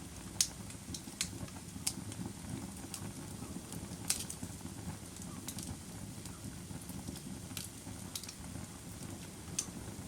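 Fire burning with a steady low rumble and irregular sharp crackles and pops, the loudest about half a second and about four seconds in.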